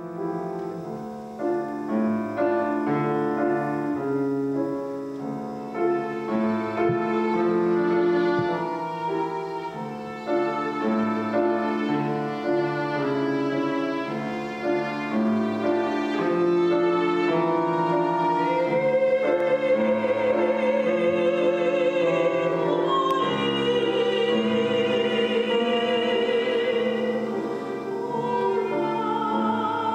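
Violin and piano playing a slow, classical-style piece by a Persian composer. From about twenty seconds in, a high melodic line with wide vibrato comes to the front.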